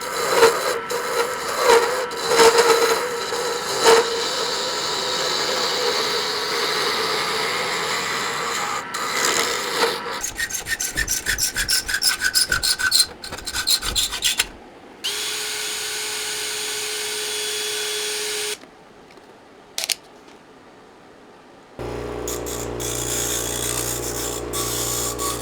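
Hand tools working wood. First comes a long stretch of scraping and rubbing on wood with a faint ringing tone. About ten seconds in it changes to quick back-and-forth sawing or rasping strokes, roughly four a second. A quieter pause with a single click and a steady hum follow near the end.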